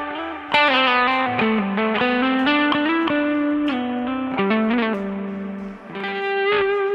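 Gretsch electric guitar played through stacked overdrive pedals and a Joyo American Sound amp-simulator pedal, with no amplifier. It plays a single-note lead line with bends and slides, with a sharp picked attack about half a second in and a long held note near the end.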